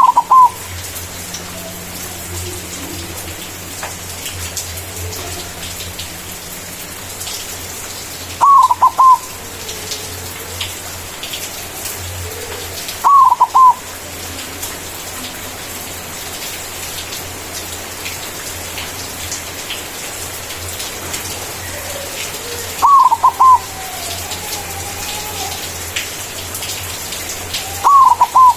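White zebra dove (perkutut putih) cooing. There are five short bursts of quick staccato coos, each about half a second long and several seconds apart, over a steady background hiss.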